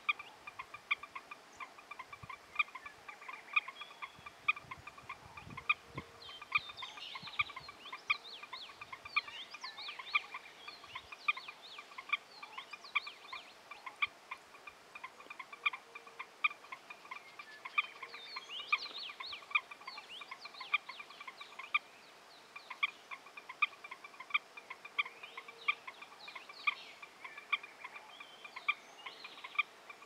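Birds calling: short, harsh calls repeated once or twice a second, mixed with higher chirps from other birds.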